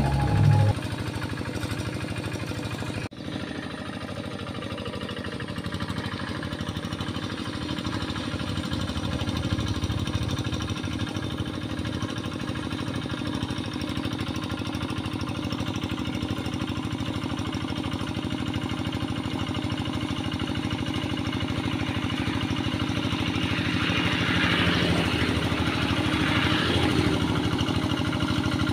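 Tractor engine running steadily as it ploughs a rice paddy, with a brief break in the sound about three seconds in.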